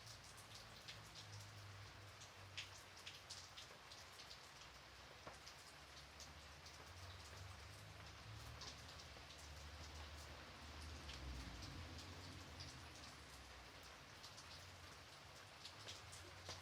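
Faint, gentle rain falling steadily, with many separate drops ticking over a soft hiss and a low rumble underneath.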